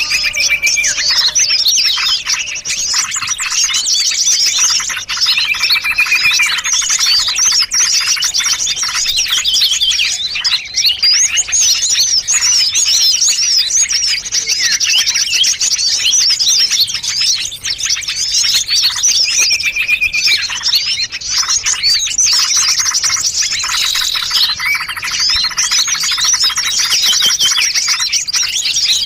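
Dense, unbroken chorus of many small songbirds chirping and trilling at once: a layered mix of calls used as a lure for small birds. Rapid high chirps throughout, with a short held whistle now and then.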